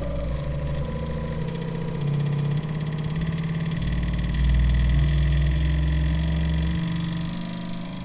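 Bambu Lab P1-series 3D printer's motors shaking the print head and bed during the self-test's vibration sweep: a loud mechanical hum held at one pitch at a time and stepping to a new pitch every half-second or so, loudest from about halfway through.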